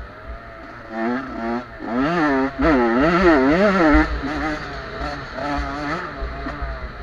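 Small-capacity motocross bikes racing, their engine pitch swinging quickly up and down as the riders work the throttle, loudest between about two and four seconds in. Wind buffets the microphone underneath.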